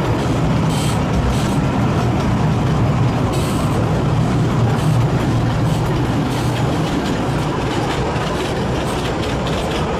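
Kurobe Gorge Railway's narrow-gauge trolley train running along the track, heard from an open-sided car: a loud, steady rumble of wheels on rails with scattered faint clicks.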